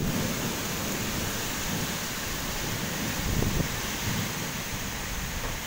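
Heavy rain pouring in a strong wind: a steady hiss with low rumbling swells, loudest about three and a half seconds in.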